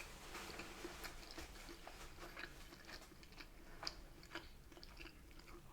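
Faint chewing and mouth clicks of someone eating fish and chips, irregular soft clicks with a slightly louder one about four seconds in.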